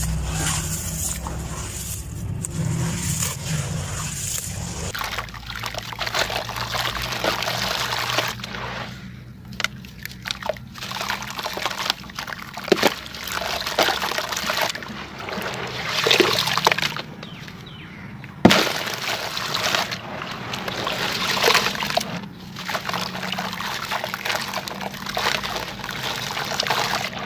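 Crumbling sand and dirt, trickling and pouring in repeated gritty surges with sharp crackling clicks.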